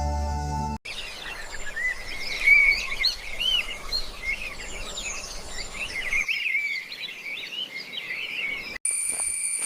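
A dense chorus of small birds chirping and twittering, many quick high calls overlapping over a faint hiss. It starts abruptly about a second in as soft ambient music cuts off, and near the end gives way suddenly to a steady high-pitched insect drone.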